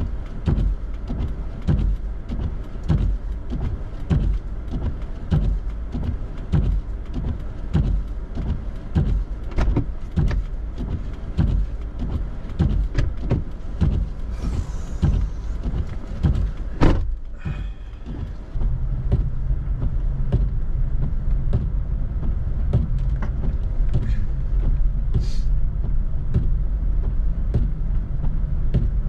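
Car driving on a snow-covered road, with frequent short knocks and thumps for most of the time. About two-thirds of the way in it gives way to a steadier, louder low rumble.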